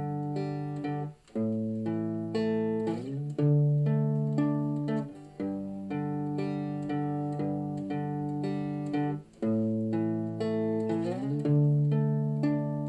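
Cigar box guitar and a four-string tenor guitar strung as a baritone ukulele playing an instrumental introduction: ringing chords that change every second or so, with short breaks about a second in, about five seconds in and about nine seconds in.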